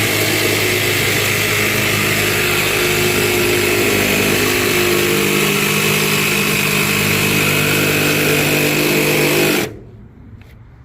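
Milwaukee Fuel cordless jigsaw running flat out, a carbide blade sawing through composite decking at a steady pitch. It stops suddenly about a second before the end.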